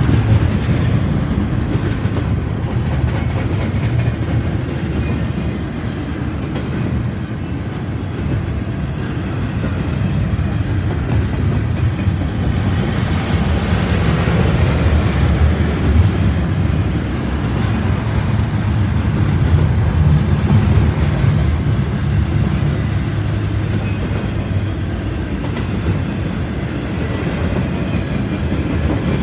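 Double-stack container well cars of a Canadian Pacific intermodal freight train rolling past: a loud, steady low rumble of steel wheels on rail.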